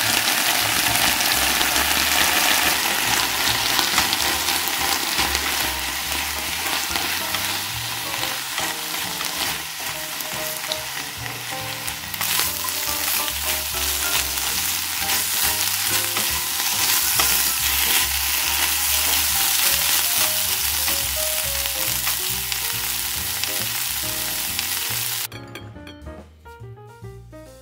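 Onion slices, green chili and scrambled egg sizzling loudly as they are stir-fried and tossed in a hot frying pan. The sizzle cuts off suddenly near the end.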